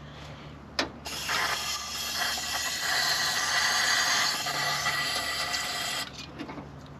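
Aerosol spray can spraying a steady hiss for about five seconds, starting just after a sharp click and cutting off abruptly.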